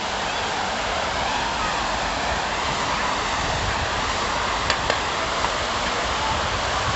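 Steady rushing city background noise, with two light clicks a little after the middle.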